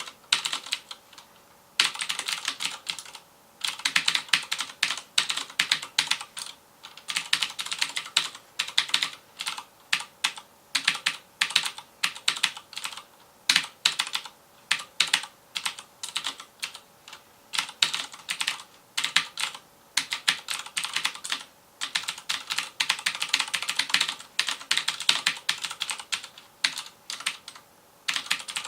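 Mechanical keyboard with clicky Cherry MX Blue switches being typed on fast, in rapid bursts of key clicks with short pauses between words and phrases. A faint steady hum sits under the clicks.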